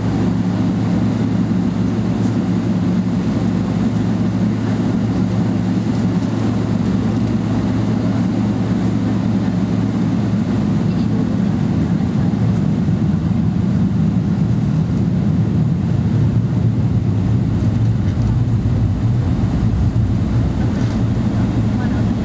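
Steady cabin drone inside a Boeing 777-300ER on the ground before take-off: a constant low hum over even rushing noise, with no change in level.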